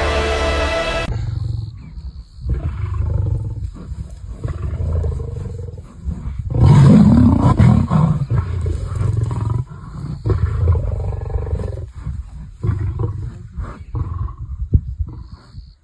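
Lions growling in repeated low rumbles, with one louder call rising and falling in pitch about seven seconds in.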